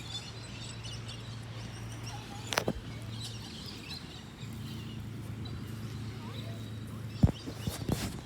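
Faint bird calls over a steady low hum, with a few sharp knocks or clicks, the loudest about two-thirds of the way in and another near the end.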